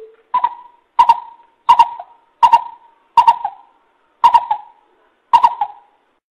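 Coucal (bubut) calling: a series of seven deep, evenly spaced hoots, about one every 0.7 seconds.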